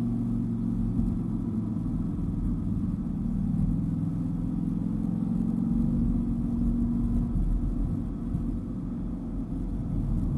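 Dodge Viper GTS's V10 engine running steadily while cruising, its note easing off about three-quarters of the way through.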